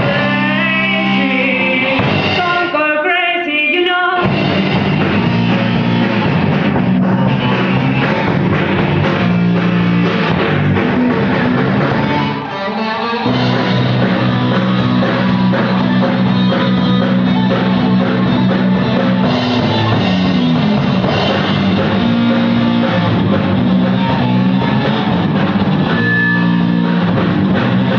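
A rock band playing live during a sound check, with singing, guitar and a drum kit. The music drops out briefly about halfway through, then carries on.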